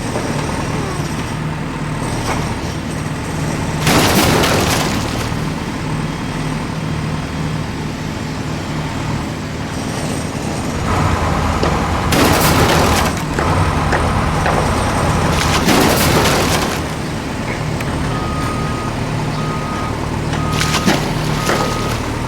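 Steady vehicle engine hum, broken by three loud hissing bursts, with a short high beep repeating about once a second near the end.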